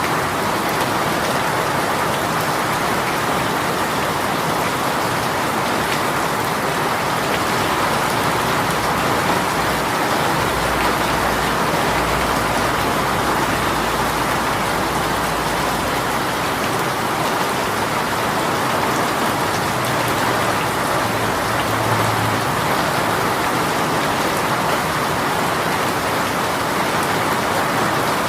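Heavy rain shower falling steadily, a dense, even patter of raindrops on surfaces.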